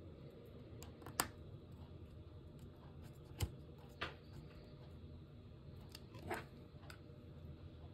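Quiet room hum with a handful of scattered short clicks and taps, one of them a dull low thump about three and a half seconds in.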